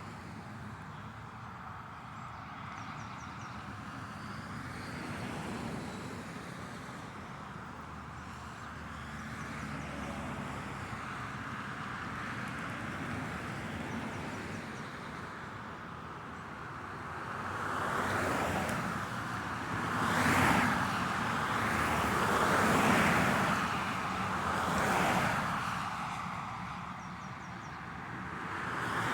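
Road traffic: a steady hum of cars going by, with several louder vehicles passing one after another in the second half.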